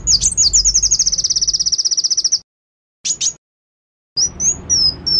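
Bird calling: a fast, high trill lasting about two seconds, then a silence, two short sharp notes, and a run of high slurred whistled notes near the end.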